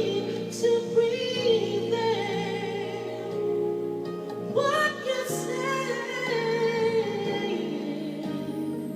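A female voice singing long held notes with vibrato over an instrumental backing track.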